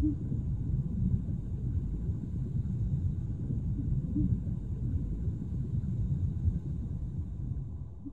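Steady low rumbling background ambience with a few faint, short low coos from pigeons, fading near the end.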